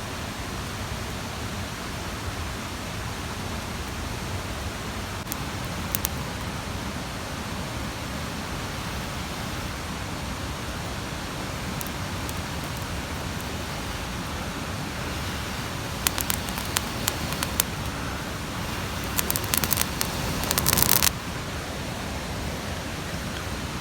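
Steady rushing of a mountain stream, with a cluster of sharp clicks and snaps about two-thirds of the way through.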